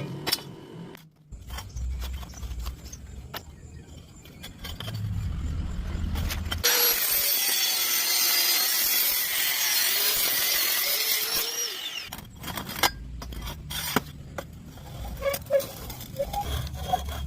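Angle grinder cutting through metal in one continuous pass of about five seconds in the middle, a loud hissing grind that cuts off sharply. Scattered clicks and knocks of metal being handled come before and after the cut.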